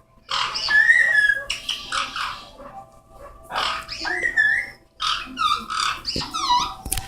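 Pet parrots calling in several harsh, roughly second-long squawking bouts mixed with whistled glides, with a quick run of repeated chirps near the end.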